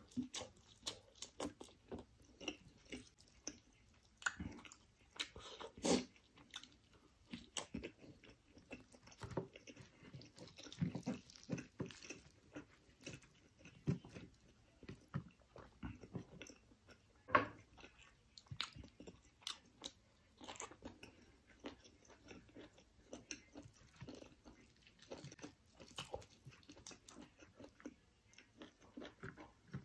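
Close-up chewing of roasted chicken masala: irregular wet mouth smacks and clicks, with occasional louder bites. Fingers squelch as they tear the greasy chicken apart.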